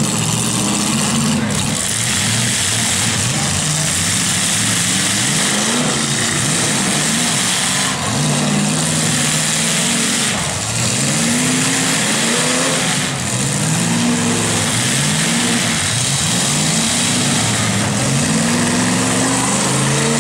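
Several pickup truck engines in a demolition derby revving up and dropping back again and again, overlapping one another.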